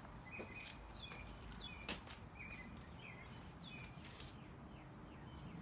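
Small birds chirping faintly outdoors, short repeated high chirps spread through the clip, with a couple of light clicks, the sharpest about two seconds in.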